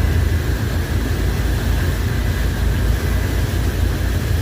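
Boat engine running steadily, a low drone with a faint steady whine above it, under a rush of wind and water.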